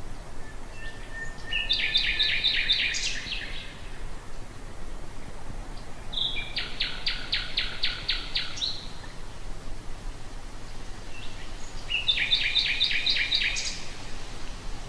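Common nightingale singing: three phrases of rapid, repeated notes, with pauses of a few seconds between them.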